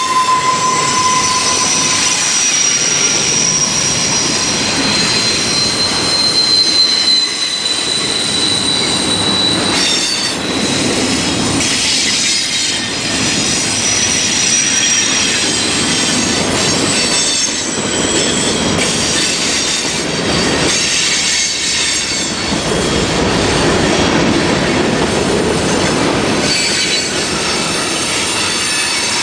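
Train rolling past with its steel wheels squealing against the rail: several high, steady squeal tones held for a few seconds at a time over the continuous rumble and rattle of the passing cars.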